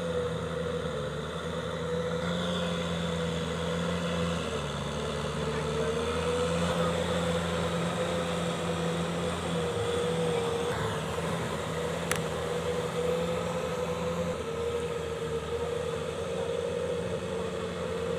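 Kubota M6040SU tractor's diesel engine running steadily, its pitch wavering a little, with one sharp click about twelve seconds in.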